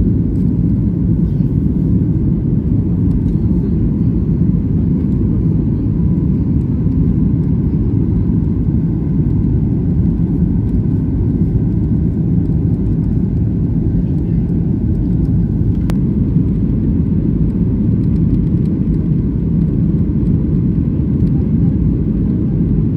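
Airliner cabin noise in flight: a steady, unchanging low rumble of engines and airflow, with one short click about sixteen seconds in.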